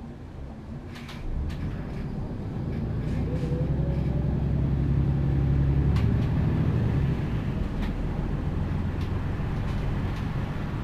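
MAN Lion's City G articulated bus's Euro 6 diesel engine pulling away under load: the engine sound builds over several seconds, then drops back about seven seconds in and runs on steadily.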